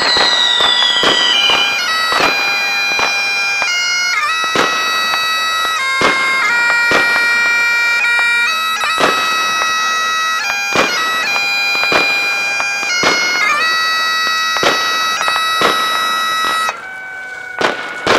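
Bagpipes playing a tune in long held notes that change pitch every second or two, over many sharp firework bangs and crackles. A firework whistles downward in the first second and a half. The piping stops about a second and a half before the end, leaving the bangs.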